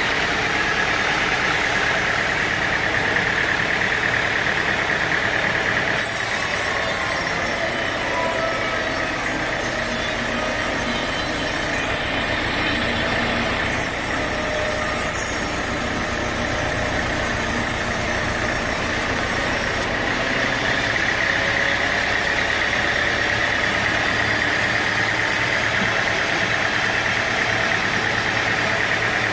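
Sawmill machinery running steadily: an engine drone with a constant high whine. From about six to twenty seconds in, a bright hiss joins it.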